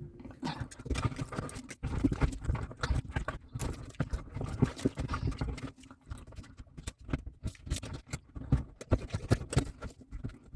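Busy, irregular tapping, knocking and clicking of hands working at a clogged dishwasher drain.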